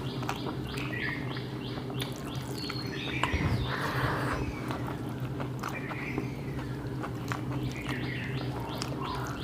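Small birds chirping, a run of short high notes that fall in pitch, about three a second, over a steady low hum.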